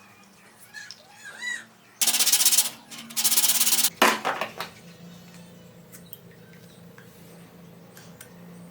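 Two loud rasping scrapes, each just under a second, like an abrasive or file being drawn across material, followed by a sharp click; after that only a faint steady hum.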